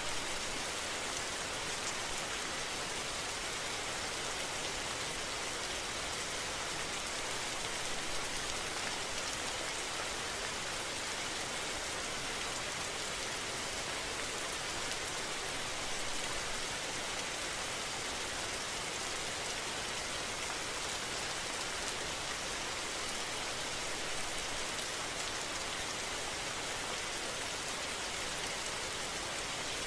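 Rain falling steadily, an even hiss with no breaks or separate impacts.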